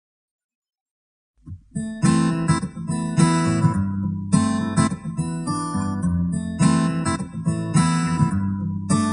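Total silence, then acoustic guitar music starts about a second and a half in. It plays strummed chords in phrases with short breaks between them.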